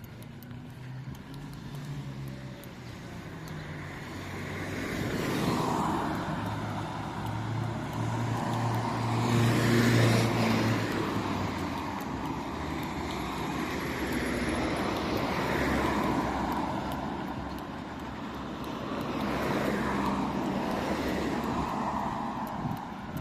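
Road traffic: several motor vehicles pass one after another, each swelling up and fading, about four in all. The loudest, about ten seconds in, carries a low engine hum from a heavier vehicle.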